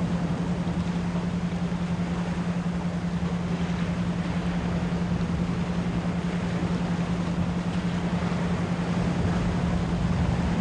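A steady 174 Hz pure tone, pulsed rapidly on and off as isochronic beats, laid over an even hiss of ocean surf and masking noise.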